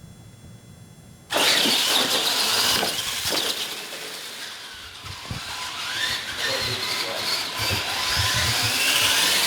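Scale RC monster trucks launching off the line in a straight-line drag race. Their motors and tyres start suddenly and loudly about a second in, and a whine rises in pitch near the end.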